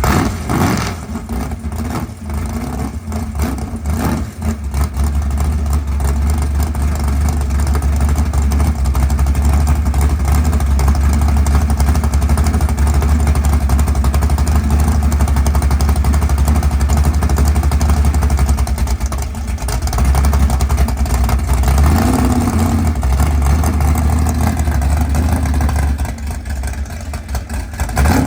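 A 1961 Chevrolet Corvette drag car's engine running loud and low at idle, with a few quick throttle blips in the first few seconds and another rev about 22 seconds in.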